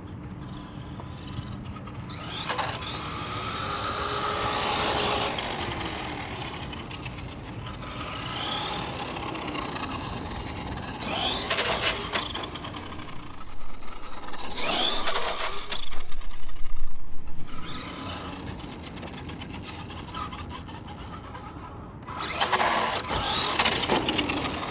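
1/10-scale RC monster truck's electric motor and drivetrain whining on a 3S battery during speed runs, the pitch rising and falling several times as the truck speeds up and slows down, with tyre noise underneath.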